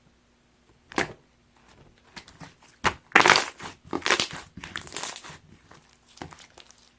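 Gold pearl slime being squished and pressed by hand: scattered sharp pops and clicks, with a run of louder crackling squishes in the middle.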